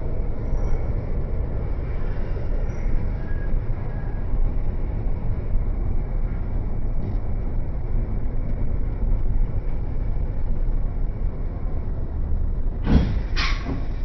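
Milan tram running with a steady low rumble, and two sharp knocks close together near the end.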